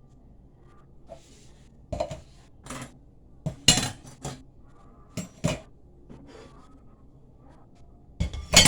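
Dishes and cutlery being handled: a string of sharp knocks and clinks, the loudest pair near the end.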